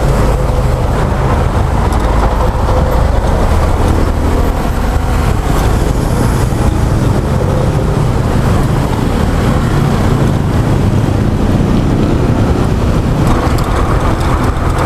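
Honda Click scooter engine running at a steady ride through traffic, a constant low drone under heavy rushing noise with no letup.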